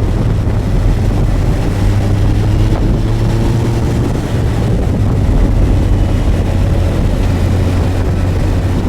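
Suzuki GSX1250FA's inline-four engine running with a steady low hum, wind rushing over the microphone.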